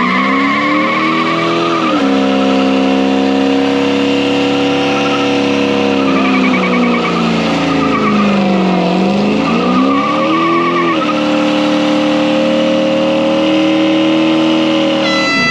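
Small-block Chevy V8 pickup held at high revs in a burnout, with its rear tires spinning and squealing throughout. The revs sag and climb back twice, then hold steady.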